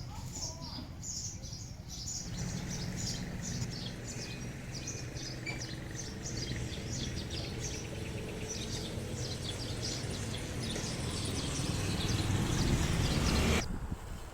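Small birds chirping rapidly and repeatedly, over a low rumbling noise that grows louder and cuts off suddenly near the end.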